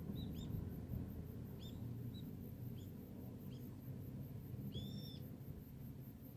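A small bird chirping: a series of short, high chirps, then one longer arched call about five seconds in, over a steady low rumble.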